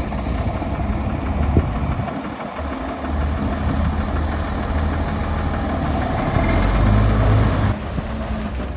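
Diesel engine of heavy earthmoving machinery running steadily, with a single sharp knock about a second and a half in. It grows louder in the last few seconds, then drops off suddenly near the end.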